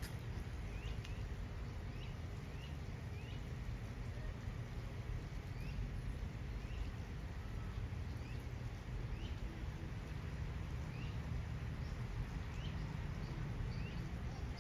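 A bird repeating a short rising chirp about once a second over a steady low outdoor rumble.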